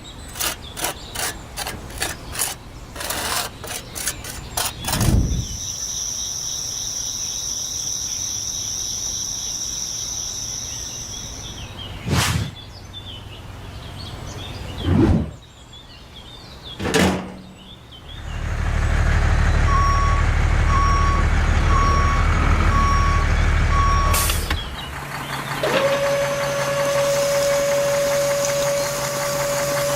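A sequence of truck sounds: a run of clicks, a steady high whine, three short sudden sweeps, then a truck engine rumbling while a reversing alarm beeps about once a second. Near the end a steady tone sounds over the engine.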